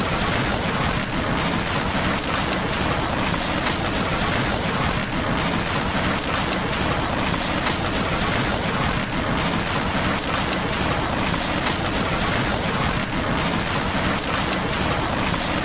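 Steady rain on window glass mixed with a crackling fireplace: a constant, even hiss of rain with sharp crackles scattered through it.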